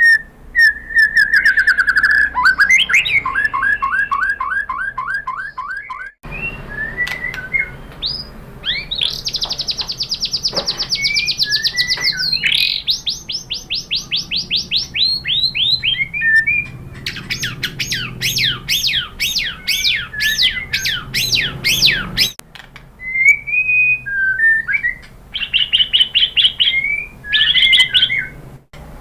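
White-rumped shama singing: loud whistled notes and long fast trills of repeated notes, some sweeping sharply up and down, with a few abrupt breaks between phrases.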